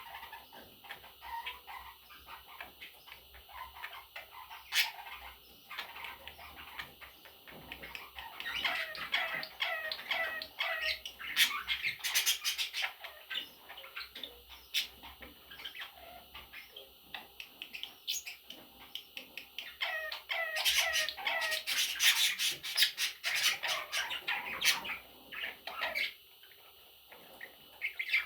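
Pet budgerigars chirping and squawking, with bursts of quick repeated chirps about a third of the way in and again past two-thirds.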